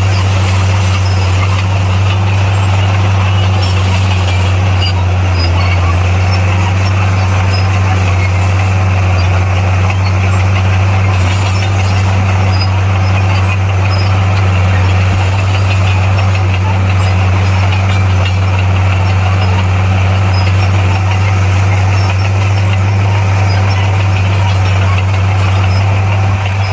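Bulldozer's diesel engine running steadily under load, with a deep, even drone throughout.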